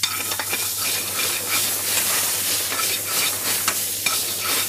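Tomato purée, ginger and garlic sizzling in hot oil in a metal pan, with a metal ladle scraping and clinking against the pan in repeated short clicks as it is stirred.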